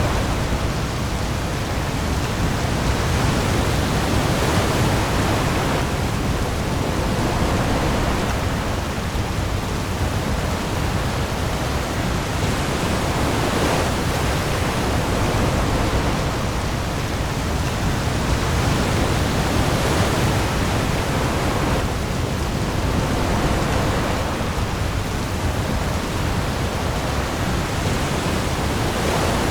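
Heavy rain falling on the open sea with waves, a dense steady hiss that swells gently every few seconds over a deep low rumble.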